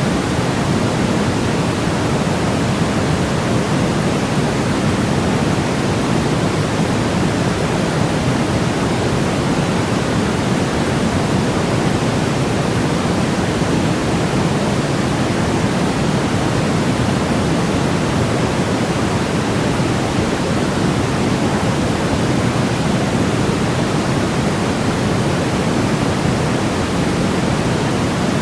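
Steady, unbroken synthesized noise for lulling a baby to sleep, a soft rushing hiss weighted toward the low end rather than bright, with no change in level.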